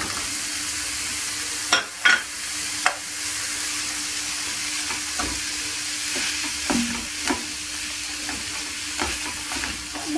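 Ground meat and chopped onion sizzling in olive oil in a frying pan, with a wooden spoon knocking and scraping against the pan as it breaks up and stirs the meat; a few sharper knocks come about two and three seconds in.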